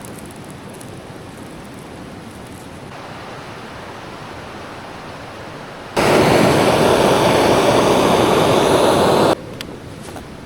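A steady rushing noise, like running water or wind. About six seconds in, a much louder rushing noise starts abruptly and cuts off suddenly about three seconds later.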